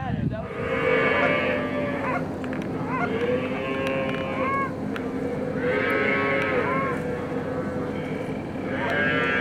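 Canada goose honks and clucks, several overlapping voices in repeated bursts every couple of seconds, over a steady low hum.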